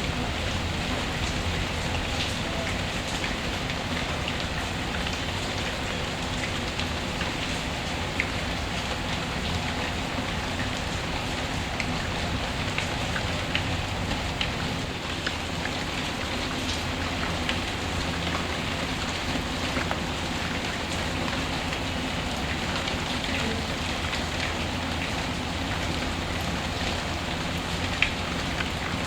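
Steady rain falling, layered with a fireplace ambience, with a few sharp pops scattered through and one louder pop near the end.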